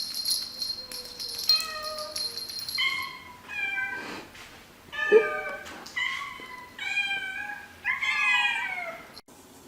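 Kitten meowing repeatedly, about seven short high-pitched mews, some falling in pitch. A steady high hiss runs under the first few seconds.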